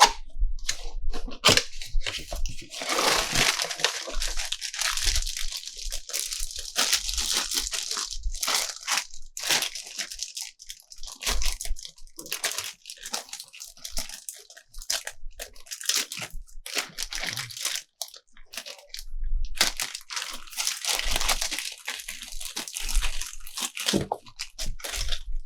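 Toy packaging being handled and opened: plastic crinkling and rustling in two long stretches, with scattered clicks and taps in between.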